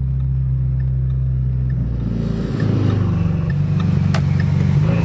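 Car engine and exhaust running at a steady drone, then picking up about two and a half seconds in as the car accelerates, its note rising and getting louder.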